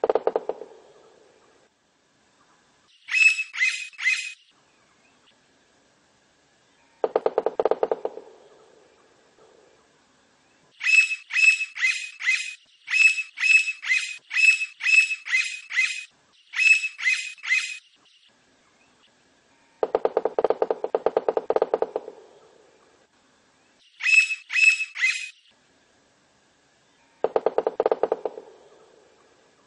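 Blond-crested woodpecker calling in quick groups of three to five sharp, ringing notes, with a long run of such groups near the middle. These alternate with four low, rapid pulse trains of about a second and a half to two seconds each, like drumming on wood.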